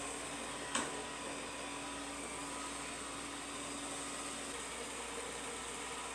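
LG RoboKing R76GIM robot vacuum running in wet-mop mode: a steady motor and fan hum with a high hiss, and a single short click a little under a second in.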